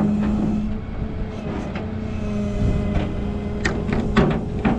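Truck engine running steadily, a low even drone. A few sharp knocks come through near the end.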